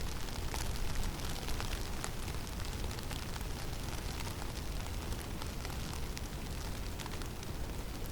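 Snowstorm in a forest: a steady low rumble of wind with many small, scattered ticks and crackles running through it.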